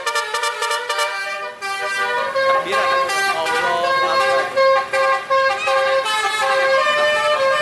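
Basuri musical truck horn playing a tune in held notes that step between pitches, with a few gliding notes around three seconds in and a run of short repeated notes about halfway through.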